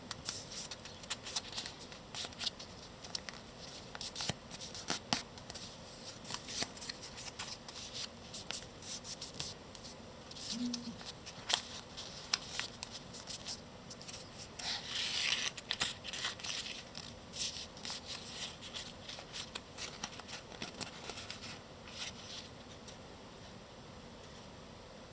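A sheet of paper being folded and creased by hand: rustling with many small crackles and clicks, and a longer crinkling rustle about fifteen seconds in.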